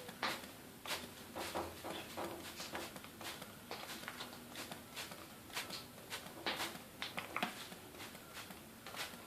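Irregular soft patters and rustles as water falls on a young vinaceous-breasted amazon parrot and its feathers during a shower.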